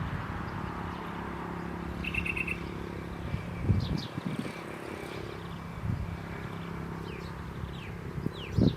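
Small bird chirping: a quick run of about five short notes about two seconds in, then brief falling chirps, a few more near the end. Under it runs a low steady hum with a few soft thumps.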